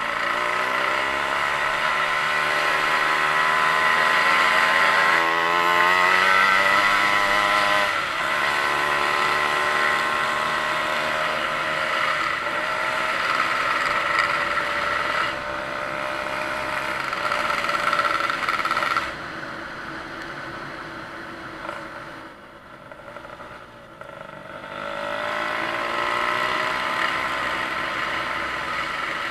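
An engine running after being started: its speed climbs over the first several seconds and holds high, drops back to a quieter, lower idle a little past the middle, then revs up again near the end.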